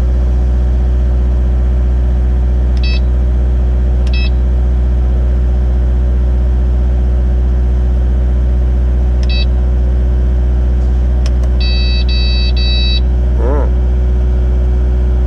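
Kubota 057-5 excavator's diesel engine running steadily, heard from inside the cab as a low hum. Short electronic beeps from the cab come three times, then a longer three-pulse beep near the end.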